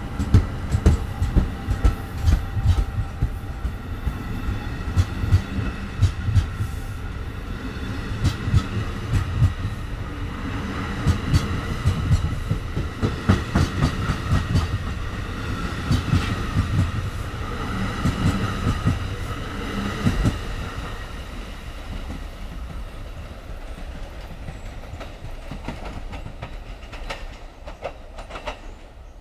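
Bombardier MultiLevel double-deck passenger coaches rolling past, their wheels clacking over the rail joints in a steady rhythm. The sound fades away from about twenty seconds in as the last car moves off.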